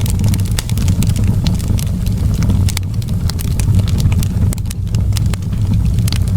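Wood fire crackling in a fireplace: frequent irregular sharp pops and snaps over a steady low rumble of the burning.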